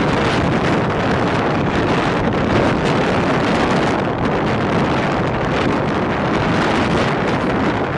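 Steady rush of wind on the microphone over the continuous rumble of a moving Rajdhani Express train.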